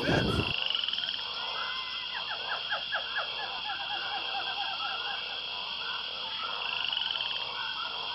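Outdoor animal chorus: a steady high buzz with many short, rapidly repeated chirping calls over it.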